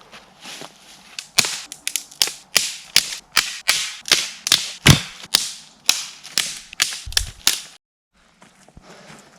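Dry firewood being broken up by hand: a quick run of sharp cracks, roughly three a second, that stops abruptly near the end.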